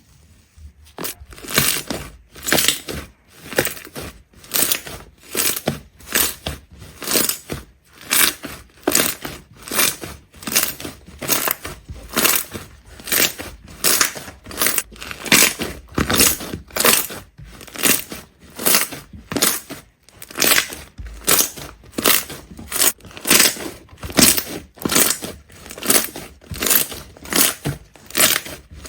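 Rhythmic crunching, something being crushed over and over at about three strokes every two seconds, starting about a second in.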